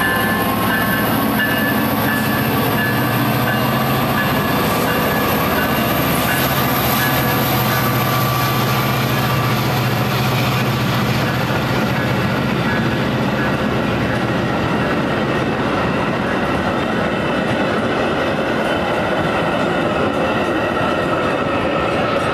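Metra commuter train passing close by: the diesel locomotive goes past first, then the bilevel passenger coaches roll over the rails, ending with the cab car. The sound is loud and steady throughout.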